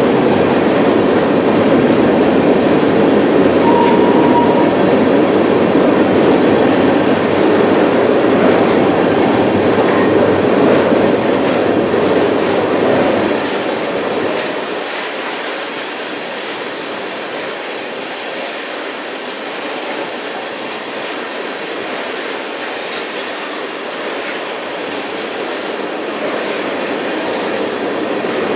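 Freight train of tank cars rolling past, steel wheels clattering over the rail joints in a steady clickety-clack, with a brief high wheel squeal about four seconds in. The rumble eases off about halfway through and builds again near the end.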